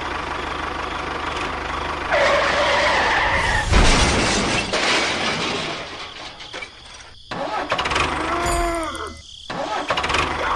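Vehicle engine sounds in several abruptly cut segments: a steady engine hum, then a pitched tone for about a second and a half, noisy running, and rising-then-falling whines near the end.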